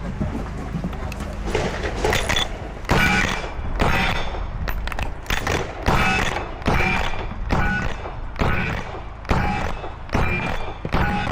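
A string of gunshots at about one a second, each followed by the ring of a struck steel target.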